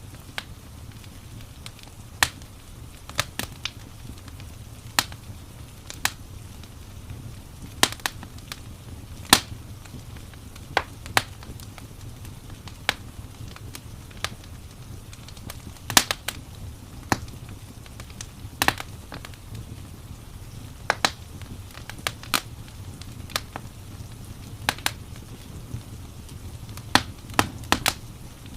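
Wood fire in a fireplace crackling: sharp, irregular pops and snaps, some louder than others, over a steady low rumble.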